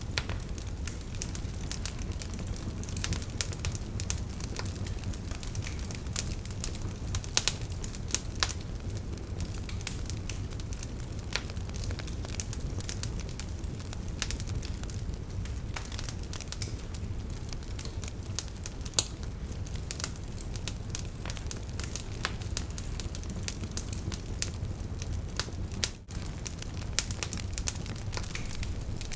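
Wood campfire crackling, with frequent irregular sharp snaps over a steady low rumble.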